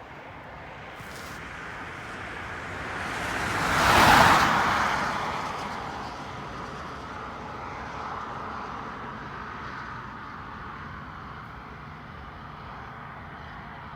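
A vehicle passing close by: its noise swells to a loud peak about four seconds in, then fades back into a steady distant rumble.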